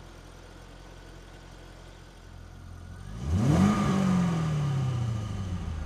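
Third-generation Chevrolet Camaro's engine idling, then revved once about three seconds in. The pitch sweeps up quickly, then falls slowly back toward idle.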